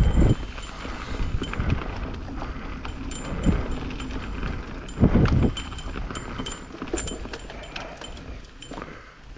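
Mountain bike being ridden on a dirt trail: a steady clatter of small rattles and clicks from the bike, broken by a few heavy low thumps.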